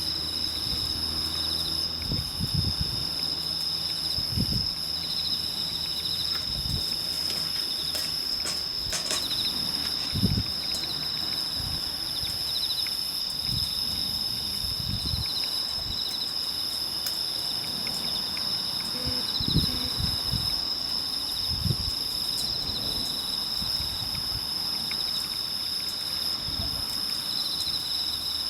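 Insects chirping: a steady high-pitched ringing, with a pulsing trill that recurs every couple of seconds. A few scattered low thumps and a brief run of faint clicks about eight seconds in.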